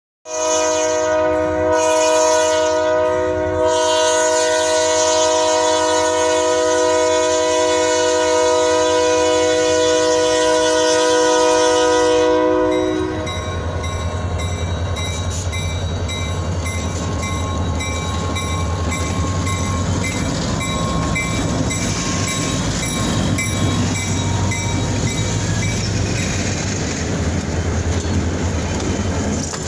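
Diesel freight locomotive horn sounding one long chord of several tones for about thirteen seconds, then cutting off. The train's EMD locomotives and cars keep rumbling past with wheels clicking over the rail joints.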